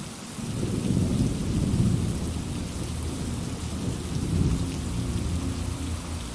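Steady rain hissing, with a long low rumble of thunder that swells about a second in and again around four seconds in.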